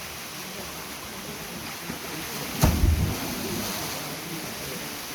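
Wind rushing over the microphone outdoors, with a short, loud low buffet of a gust a little past halfway.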